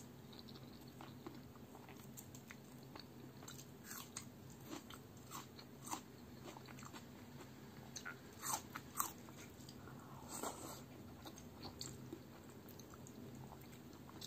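Close-miked chewing of rice and palak chicken curry eaten by hand, with wet mouth clicks. Near the middle, bites into a raw onion ring give a few crisp crunches, the loudest sounds here.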